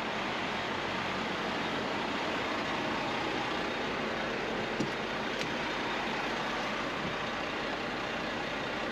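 Steady running noise of a semi-truck, with two short clicks a little past the middle.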